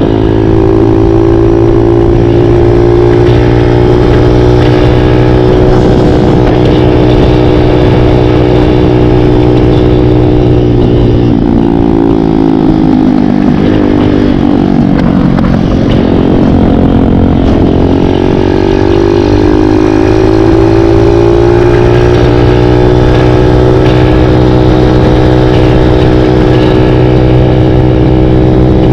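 Big-bore Kawasaki KLX178 dirt bike's single-cylinder four-stroke engine under way at a steady speed. About twelve seconds in the pitch falls as the rider eases off, then climbs again as he accelerates back up and holds it steady.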